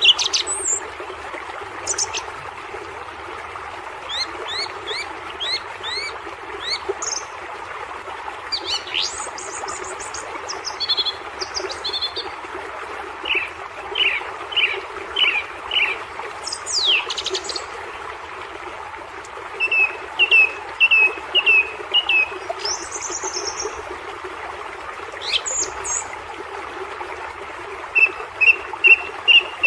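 Songbirds chirping in repeated series of short, high notes, coming and going every few seconds, over a steady rush of running water from the waterfalls.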